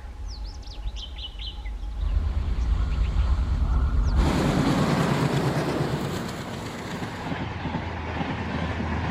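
Twin ALCO diesel locomotives approach with a deep engine rumble that grows louder, then pass close about four seconds in with a sudden loud rush of engine and wheel noise. The noise eases slightly as the train runs on by. Birds chirp in the first two seconds.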